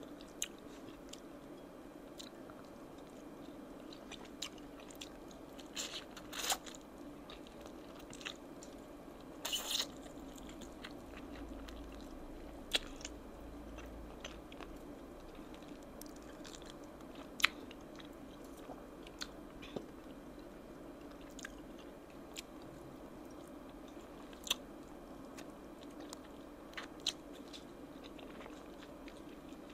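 A person chewing and biting oven-baked chicken wings, with scattered short, sharp mouth clicks over a faint steady hum.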